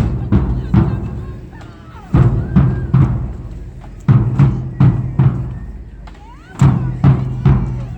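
Marching band drumline playing a marching cadence: heavy drum strikes in repeating groups of three or four, a new group about every two seconds.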